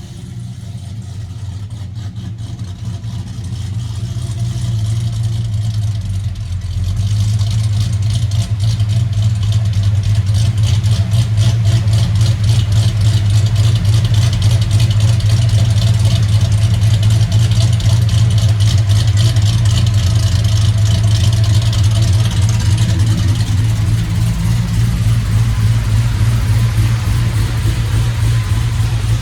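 Supercharged 6.2 L V8 of a GM pickup with long-tube headers and a custom exhaust, running loud. It builds over the first seven seconds or so, then holds at a steady, unchanging pitch.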